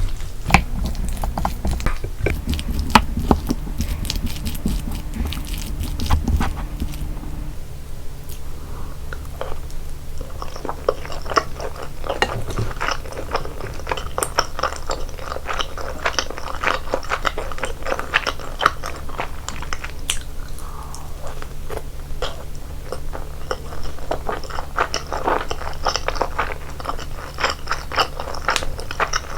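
Close-miked eating sounds: a person biting and chewing sauce-coated chicken, with irregular crunches and wet mouth clicks.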